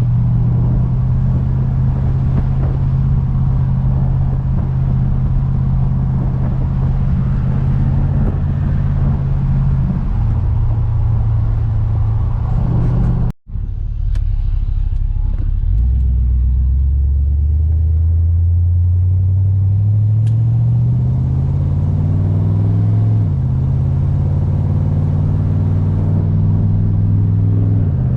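Chevelle engine through dual exhaust with 32-inch glasspacks, heard on a drive. It cruises at a steady note, cuts out briefly about halfway, then accelerates, its pitch rising for several seconds before dropping suddenly at a gear change, and settles back to steady cruising.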